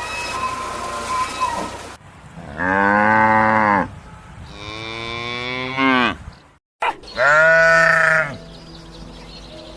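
Farm livestock calling: three long, drawn-out calls, each lasting over a second, the last starting after a brief break.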